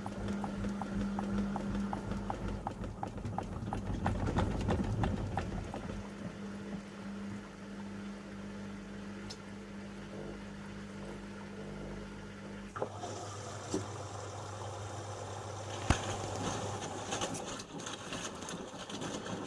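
Front-loading washing machine (Panasonic NA-147VB2) turning its drum: a steady motor hum with a rapid run of knocks as the wet laundry tumbles. About 13 seconds in the hum changes and drops, and a few separate clicks follow.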